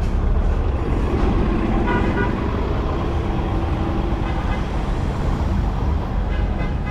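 Steady low rumble of road traffic and wind on a bicycle-mounted phone microphone while riding. A short horn toot comes about two seconds in, and more near the end.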